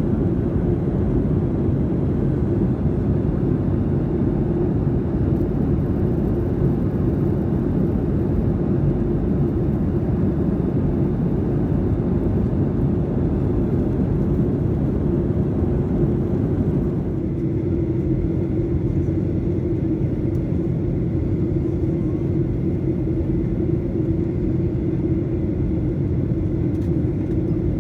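Steady rumble and hiss of a Boeing 737-900's CFM56 jet engines and airflow heard inside the passenger cabin, with a constant low hum. The higher hiss eases slightly about two-thirds of the way through.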